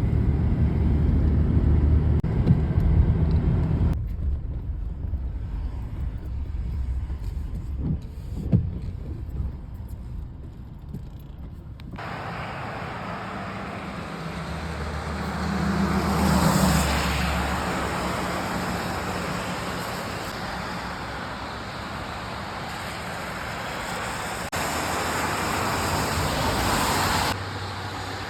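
Road traffic: vehicle engines and tyre noise, changing abruptly several times, with one vehicle passing louder about sixteen seconds in.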